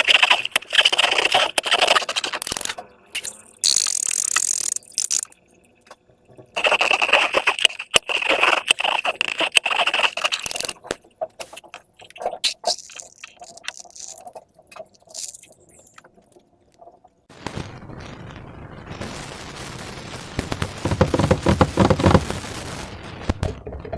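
Slime and rubber balloons being handled and squeezed: several bursts of crackling, clicking sounds with short pauses between them.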